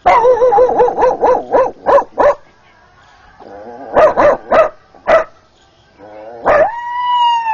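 A man's voice imitating a dog: a quick run of barks, more barks about four seconds in, then a long drawn-out whining yawn near the end.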